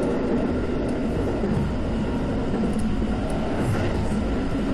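Keikyu commuter train running at speed, heard from inside the carriage: a steady rumble of wheels on rails.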